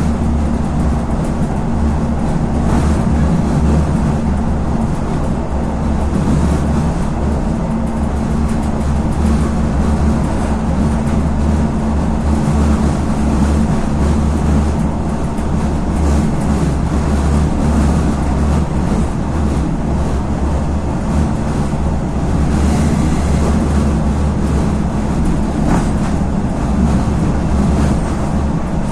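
Regionova diesel railcar running along the line, heard on board: a steady low diesel engine drone over the rumble of wheels on rail.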